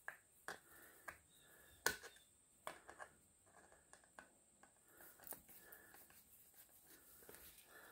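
Scattered light clicks and taps of small hardware being handled, with the sharpest click about two seconds in.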